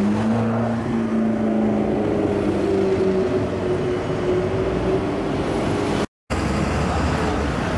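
Sports car engine running as the car drives close past and pulls away, its note rising a little and then slowly falling. The sound drops out for a moment about six seconds in, then street traffic noise follows.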